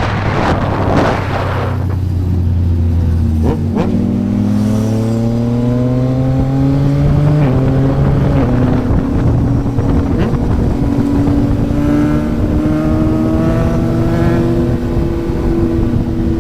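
Yamaha MT-09's inline three-cylinder engine through a Yoshimura R11 exhaust, accelerating with its revs climbing, a gear change about halfway through, then pulling up slowly again.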